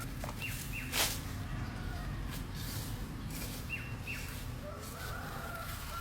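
Wild birds calling: pairs of short falling chirps, then a long steady whistled note near the end. A single sharp knock sounds about a second in.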